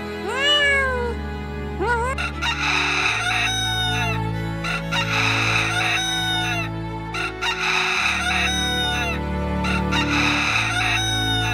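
A cat meows once at the start. Then a swamphen gives a string of harsh, hen-like calls about every second and a half, each ending in a falling note. Soft background music plays underneath.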